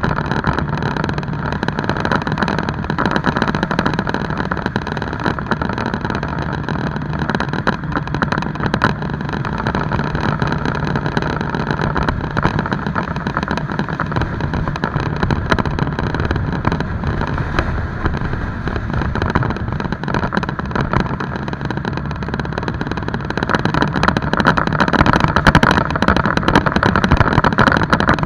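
Motorcycle engine running steadily while under way, growing louder over the last few seconds.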